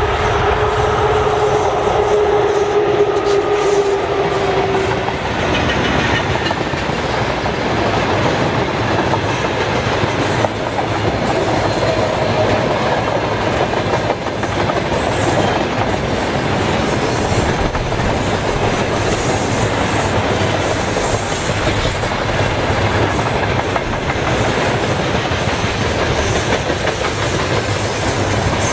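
Loaded freight train of tank cars and open wagons rolling past at speed: a steady rumble with the clickety-clack of wheels over rail joints. A steady tone from the passing VL10 electric locomotive fades out about five seconds in.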